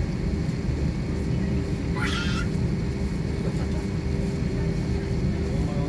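Steady low rumble of an airliner's engines and cabin air heard from inside the passenger cabin, with a constant hum. About two seconds in, a short high-pitched wavering squeal cuts through.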